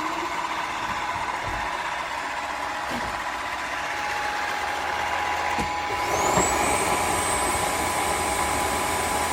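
Tineco Floor ONE S5 cordless wet-dry vacuum running its self-clean cycle in its dock: a steady motor hum, then about six seconds in the motor spins up with a rising whine that levels off high and steady.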